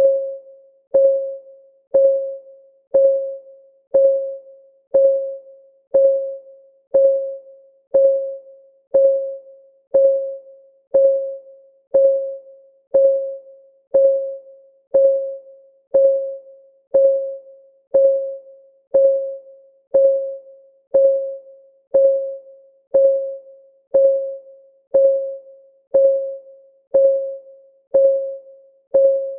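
Clock ticking sound effect, one tick a second: each tick is a sharp click with a short ringing tone that dies away before the next, steady and even.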